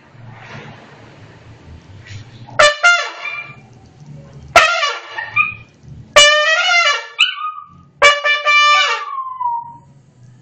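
Trumpet blown by a dog: four short, wavering blasts about two seconds apart, the last trailing off into a falling note.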